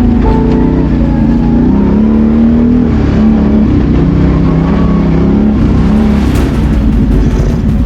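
BRP Outlander 650 ATV's V-twin engine running under load during a ride, its pitch rising and falling with the throttle.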